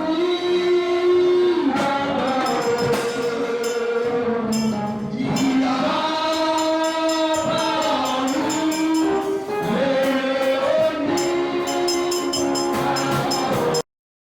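Congregation or choir singing a gospel song in unison with a steady rhythmic percussion beat, such as clapping or tambourine. The singing breaks off abruptly near the end.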